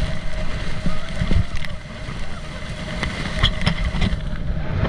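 Wind buffeting the microphone over the steady hum of a motorboat engine towing a banana boat across the water.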